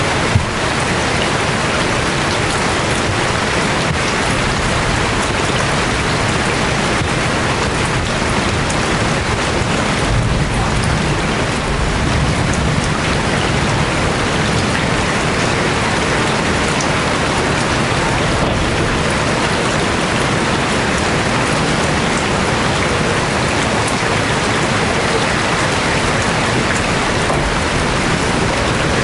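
Steady heavy rain falling on surfaces, a dense even hiss, with a low rumble swelling about ten seconds in.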